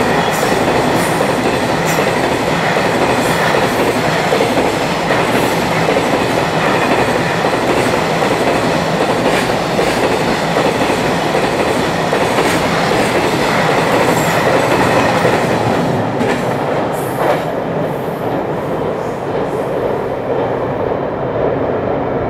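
Long freight train of container wagons passing close by at speed: a steady rolling rumble of steel wheels on the rails, with a clack of wheels over rail joints every second or two. It grows a little quieter and thinner near the end.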